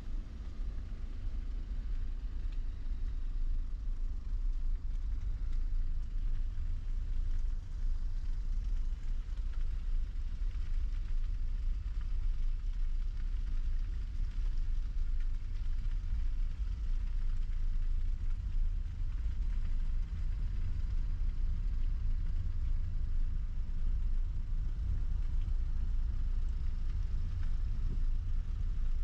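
Steady low rumble of a kei van's engine and running gear, even and unbroken throughout.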